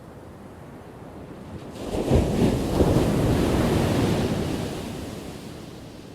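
Ocean wave breaking on the shore. The surf noise rises sharply about two seconds in, peaks, then washes out and fades over the next few seconds.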